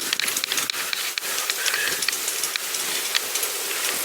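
Riding noise from a pedal bicycle on a canal towpath: a steady hiss from the tyres and moving air, with many irregular small clicks and rattles.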